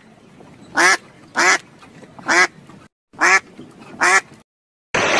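Ducks quacking: five short, separate quacks spaced irregularly. Just before the end the sound cuts suddenly to the steady rush of ocean surf.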